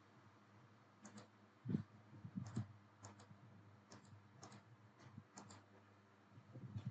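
Computer mouse clicking: scattered quick clicks, several in close pairs like double-clicks, over a faint steady low hum.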